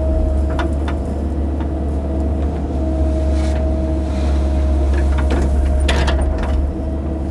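Excavator running while digging: a steady diesel rumble with a constant hydraulic whine. A few sharp knocks come through, with a cluster of them about six seconds in.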